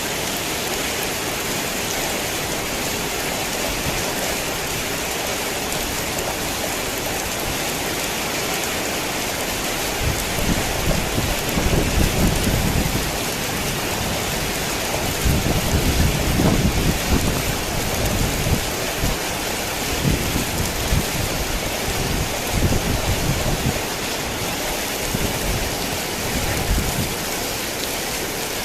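Steady heavy rain falling. From about ten seconds in, low rolling rumbles of thunder come and go over the rain.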